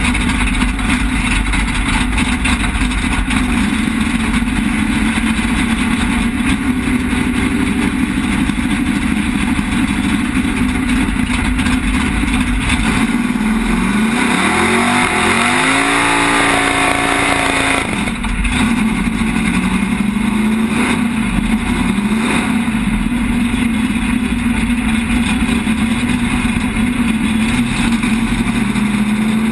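Drag-race car's engine idling, heard from inside the cockpit, with a brief rise and fall in engine pitch about halfway through before it settles back to idle.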